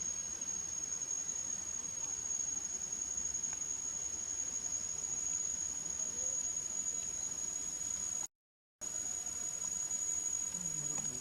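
Insects droning with one steady, high-pitched tone over faint outdoor ambience. The sound breaks off completely for about half a second around eight seconds in.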